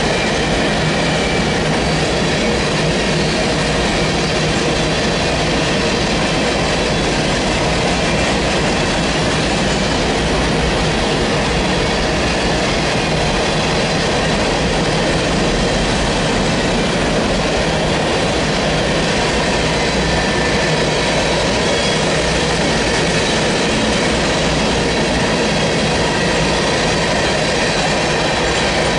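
Freight train of open-top hopper cars rolling steadily past at close range: a continuous loud noise of steel wheels on rail, with faint high squealing tones from the wheels.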